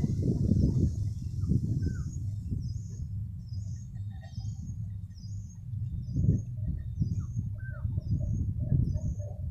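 A low rumble from the departing electric multiple unit local train fades away. From a couple of seconds in, a bird gives a short high chirp over and over, about one and a half times a second, with a few lower chirps between.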